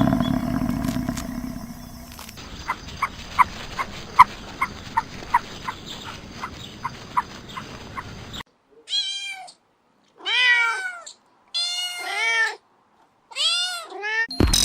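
A domestic cat meowing about five times in the second half, each meow rising and then falling in pitch. Before that, a run of short chirps about two or three a second, after the tail end of a fading call.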